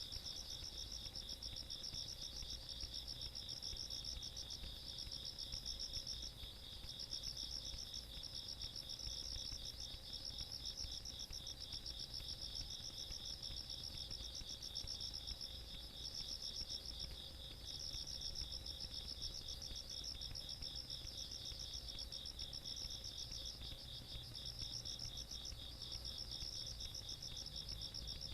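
Chorus of night insects calling in the countryside: one kind keeps up a steady, rapid trill while a higher-pitched kind pulses in phrases of about a second, separated by brief gaps.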